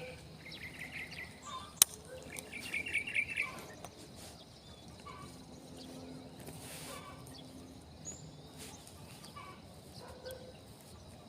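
A bird chirping in two quick, rapid trills of short high notes, with one sharp click about two seconds in; after that only faint outdoor background.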